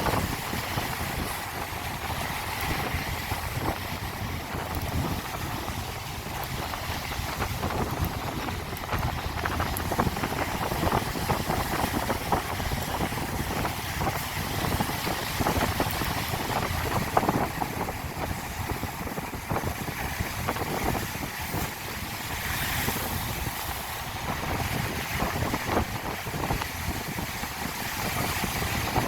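Mountain stream rushing and splashing over rocks, a steady even noise with fine crackling from the water throughout.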